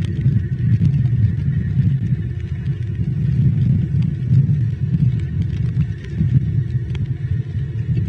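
Steady low outdoor rumble on the cam's microphone, with a few faint clicks.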